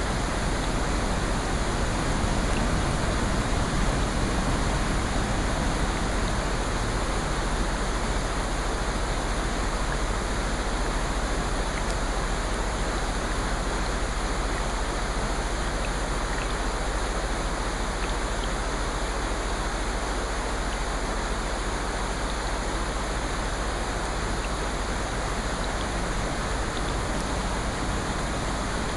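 Steady rushing water noise of a relaxation soundscape, rain and ocean surf blended into an even hiss, with a few faint ticks.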